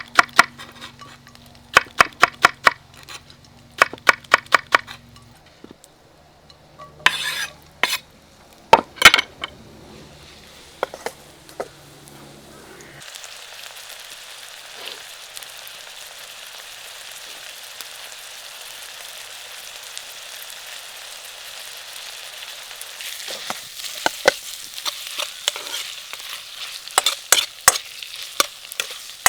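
Sharp clicks and knocks at first. Then, about thirteen seconds in, a steady sizzle begins as food fries in hot oil in a wok over a wood fire. Quick clacks of a spatula against the wok grow busier near the end as the food is stirred.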